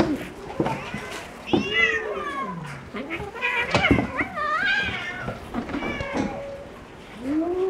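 Kittens meowing repeatedly: a string of mews, several sliding down in pitch, busiest around four seconds in, with a few light knocks among them.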